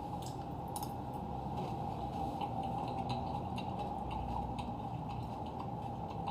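Faint eating sounds: small, scattered clicks of cutlery against a dish over a steady low background hum.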